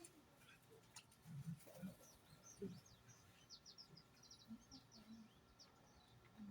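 Small birds chirping faintly, with a quick run of short, high chirps a few seconds in.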